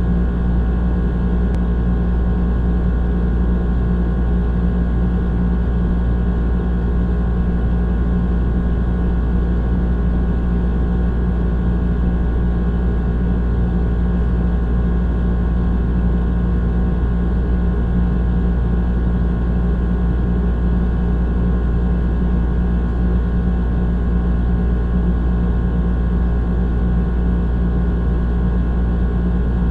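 Old air conditioner running steadily: a constant deep hum with a buzzing drone and several steady tones above it, unchanging throughout.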